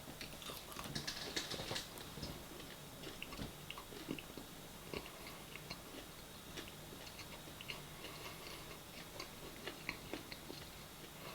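A person chewing food close to the microphone: faint, irregular mouth clicks and smacks.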